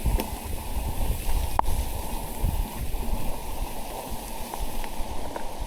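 Steady splashy rushing of rain and a soaked trail, with a few light ticks and one sharp click about a second and a half in.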